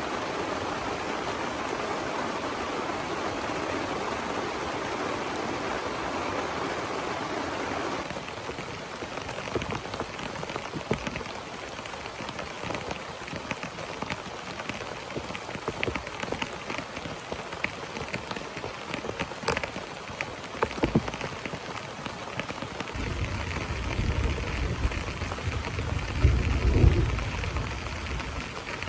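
Heavy rain falling in a dense, steady hiss that changes abruptly about eight seconds in to rain pattering with distinct drops on a surface. Near the end a low rumble of thunder swells and fades.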